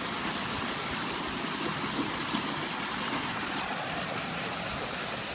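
Steady rushing background noise, with a couple of faint clicks about two and a half and three and a half seconds in.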